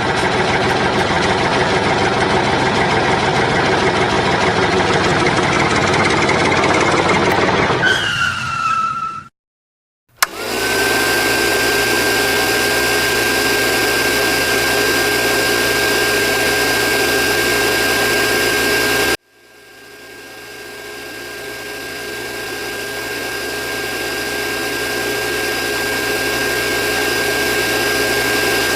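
A small motor running loudly. It winds down with a falling pitch about eight seconds in and stops. After a second's silence it spins up again into a steady whine, which cuts off abruptly about two-thirds of the way through and then fades back in.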